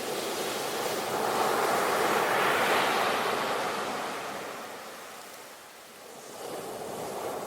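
Ocean waves washing onto a shore: one wave swells and breaks about two seconds in, then drains away, and the next begins to build near the end.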